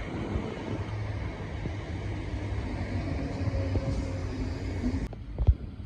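Class 318 electric multiple unit running along the platform: a steady rumble of wheels on rail with a low hum from the train. The sound changes abruptly about five seconds in.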